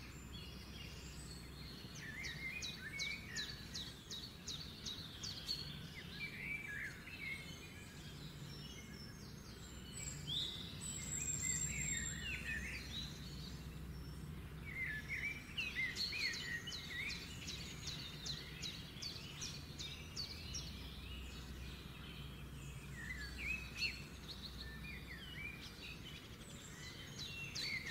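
Birds singing in repeated phrases of quick chirps and rapid trills every few seconds, over a low steady hum.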